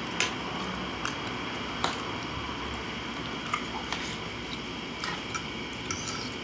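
Someone chewing a mouthful of spaghetti, with a few faint short clicks over a steady background hiss.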